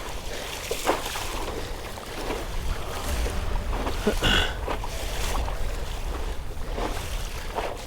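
Wind buffeting the microphone over water lapping against a kayak on open sea, with scattered small knocks and splashes.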